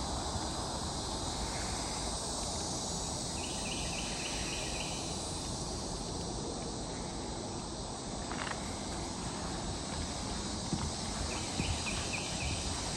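Steady high-pitched chorus of insects in a swamp, with two short runs of quick repeated animal call notes. Near the end, a few soft footsteps on a wooden boardwalk.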